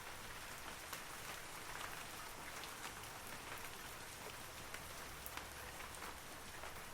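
Steady rain falling on forest trees, a soft even hiss with many separate drops pattering close by.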